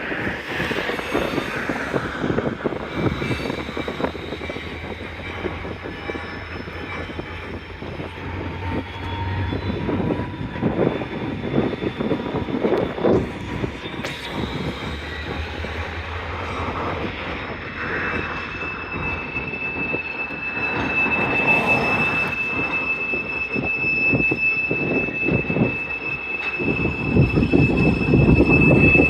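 Freight cars rolling through a rail yard with a steady low rumble. A high, steady steel-wheel squeal sets in about two-thirds of the way through and holds, and the rumble grows louder near the end.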